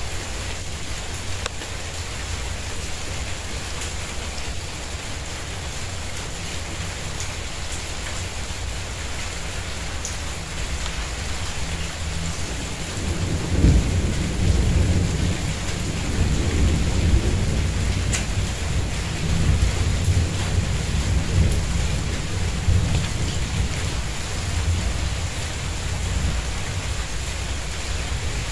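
Steady rain falling on a tiled courtyard. About halfway through a low, uneven rumble of thunder builds and rolls on almost to the end.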